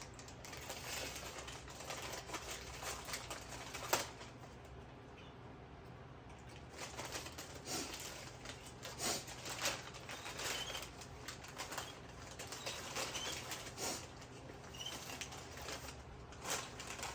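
Canaries fluttering and hopping about, with scattered clicks and rustles and a few short, faint chirps.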